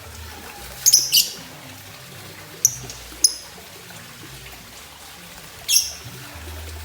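Lovebird giving short, shrill, high-pitched chirps: a quick cluster about a second in, two single calls a little later, and a slightly longer call near the end.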